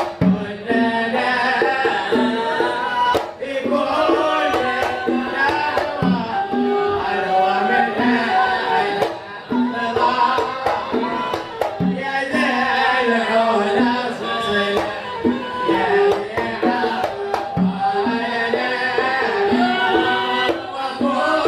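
Sama' devotional chant sung with hand-drum accompaniment; the sung melody carries on throughout over scattered drum strokes.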